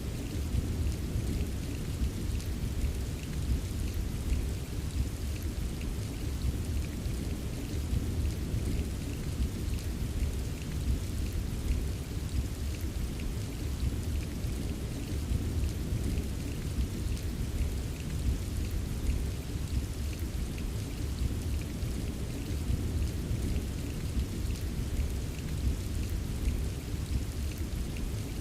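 Steady, even rain ambience: a dense patter of falling rain over a continuous low rumble.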